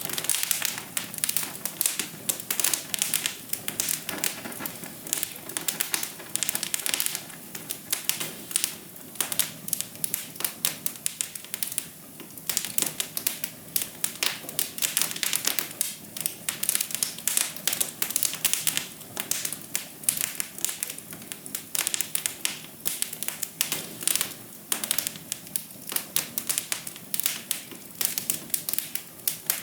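Wood fire crackling: a dense, irregular stream of sharp pops and snaps over a soft steady hiss.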